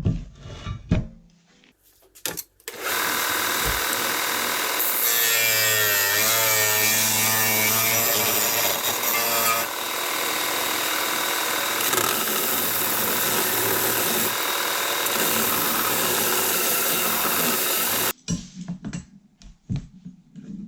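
A power tool cutting metal: a loud, steady rasping that starts about three seconds in, carries a wavering whine for a few seconds, and cuts off abruptly about fifteen seconds later. Scattered knocks come before and after it.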